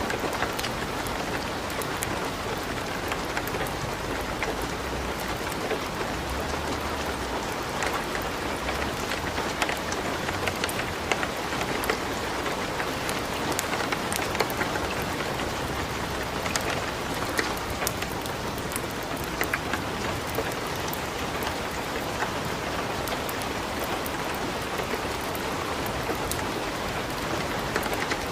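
Light rain blended with a crackling wood fire in a fireplace: a steady, even hiss with many scattered sharp ticks and pops.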